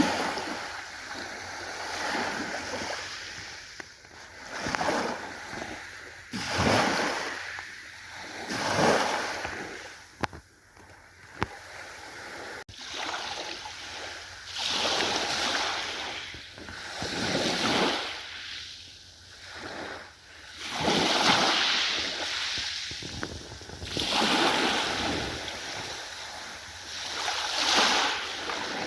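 Ocean waves breaking and washing on the shore, the surf rising and falling in a run of swells every few seconds.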